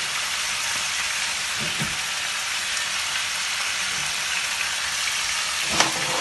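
Sliced onions and mushrooms with bits of meat sizzling steadily in a frying pan. A single short knock comes near the end.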